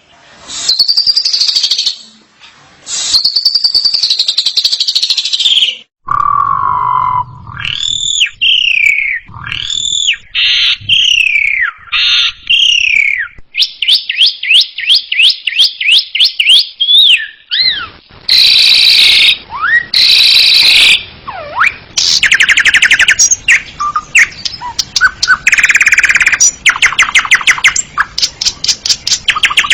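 Asian pied starling (jalak suren) singing a loud, varied song. Arching and falling whistles give way to a fast rattling trill, then harsh grating notes with sliding whistles, and rapid clicking trills near the end.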